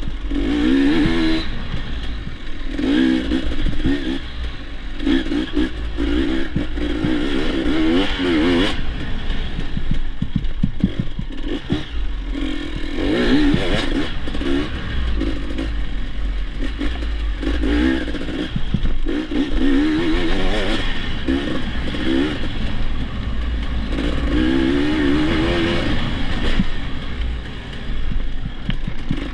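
Dirt bike engine revving up and down repeatedly, its pitch rising and falling every second or two as the throttle is worked, over rattling and knocking from the bike.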